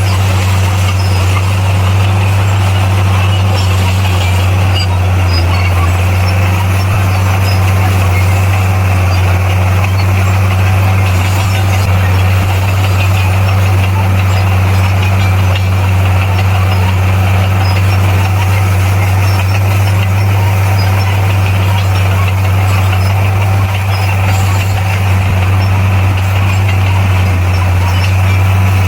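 Bulldozer's diesel engine running steadily under load, a constant low drone with mechanical clatter over it.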